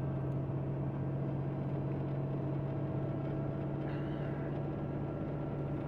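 Semi tanker truck's diesel engine running steadily at constant speed, heard from inside the cab as a low, even drone with a low rumble beneath.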